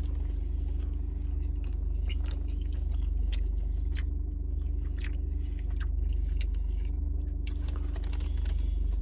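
Close-up chewing and mouth clicks of a person eating a glazed donut, over a steady low hum. The crackle thickens near the end.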